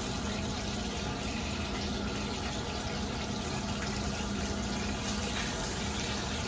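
Steady hiss of a busy gas range: breaded chicken cutlets frying in hot oil in a skillet and a stockpot of pasta water boiling beside it, over a low steady hum.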